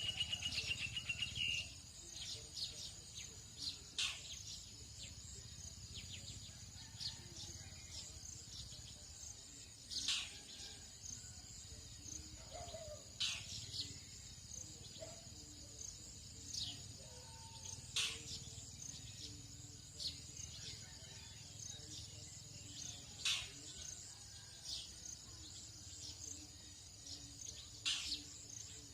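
Tropical dawn chorus: a steady, high-pitched insect trilling runs under bird calls. A fast bird trill sounds at the start, then sharp falling whistled calls come every few seconds.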